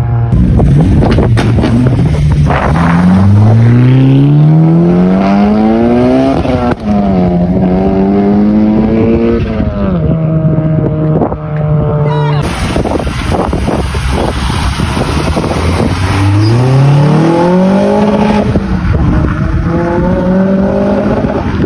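Honda car engines accelerating hard up through the gears. The revs climb steeply, then drop back at each upshift, in two separate runs.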